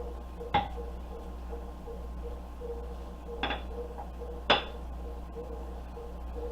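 Three short knocks from pie dough being rolled out and flipped on a kitchen counter, the first near the start and two close together a little past the middle, over a steady low hum.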